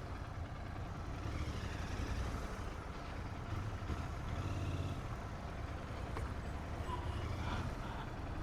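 Motor vehicle engines running in street traffic, with a low engine rumble that swells and eases several times.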